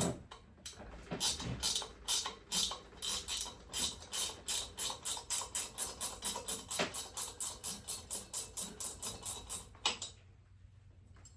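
Hand ratchet clicking in quick, even back-and-forth strokes, about three a second, backing out a fastener on a V-twin motorcycle engine's top end; it stops near the end.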